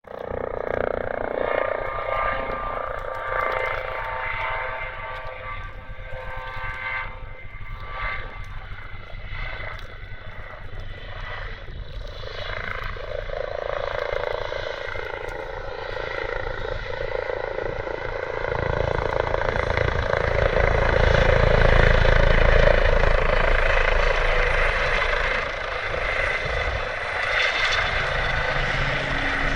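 Emergency medical helicopter in flight: a steady turbine whine over rotor noise, the tones bending slowly in pitch. About two-thirds of the way through, a deep rotor rumble swells and becomes the loudest part as the helicopter comes close.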